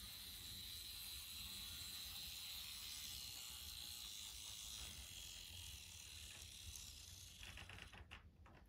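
Faint, steady high whine and hiss of a Z scale Märklin class 143 model locomotive's small motor running on track. It fades out about seven and a half seconds in, followed by a few light clicks.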